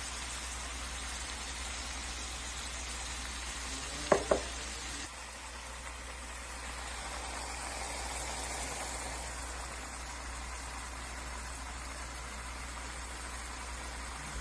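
Thick spiced korma gravy sizzling and bubbling in oil in a pan, the masala frying down. Two sharp knocks about four seconds in, and the sizzle softens slightly just after.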